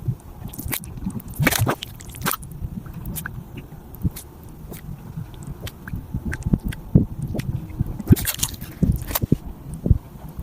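Mud volcano bubbling, with many irregular pops over a low rumble.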